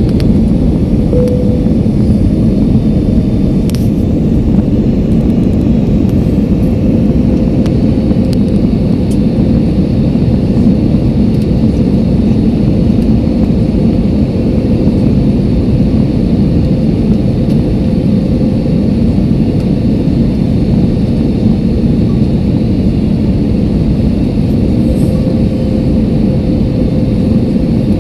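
Airliner cabin noise heard from a passenger seat: a loud, steady low rumble of engines and airflow with a faint constant hum.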